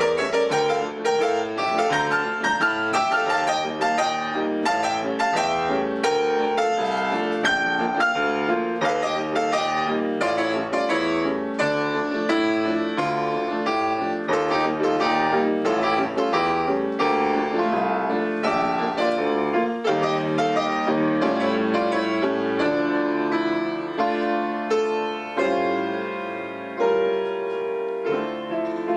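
Piano duet, two players at one piano, playing a busy passage of quick, closely spaced notes that goes on without a break.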